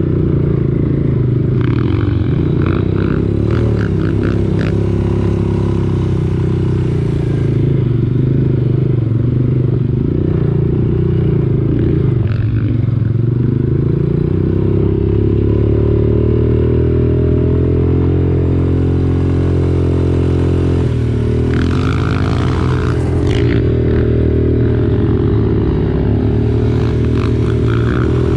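Quad bike (ATV) engine running continuously on a trail ride, its pitch rising and falling with the throttle. Bursts of clattering and scraping ride over it a couple of seconds in and twice more in the last third.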